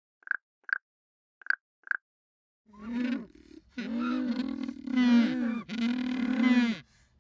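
A few short, high pips in pairs, then an animal's long, low calls with a wavering, sliding pitch.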